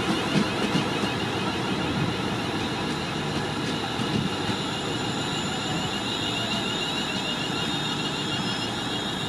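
Train running through the station with a steady rolling rumble and a high whine. A few sharp clicks come in the first four seconds.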